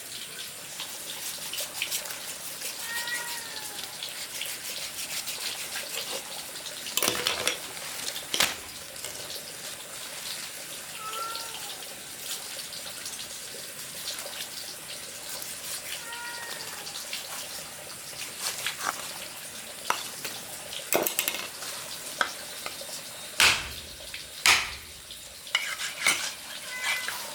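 Cooking sounds: a steady sizzle of frying with scattered knocks and clinks of utensils against pots and dishes, which come closer together and louder near the end. A few short arched animal calls sound faintly in the background.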